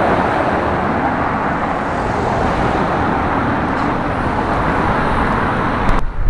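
Steady city street traffic: a continuous wash of engine and tyre noise from passing vehicles. It changes abruptly near the end to a louder, uneven low rumble.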